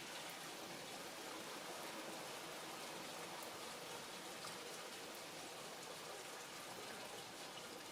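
Light rain falling: a faint, steady hiss with scattered small drop ticks.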